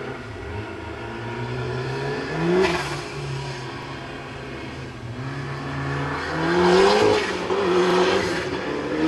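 Ford Escort Mk2 RS2000 with a turbocharged Cosworth YB four-cylinder engine accelerating hard. The engine note climbs and falls back twice, and it is loudest about seven seconds in as the car comes closer.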